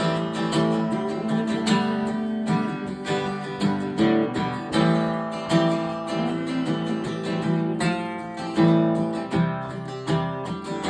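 Acoustic guitar strummed in steady rhythm with no voice, the instrumental close of a song, ending on a last strummed chord near the end.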